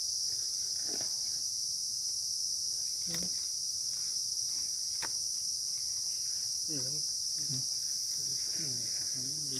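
Steady high-pitched insect chorus, with two sharp snaps a few seconds in and faint voices near the end.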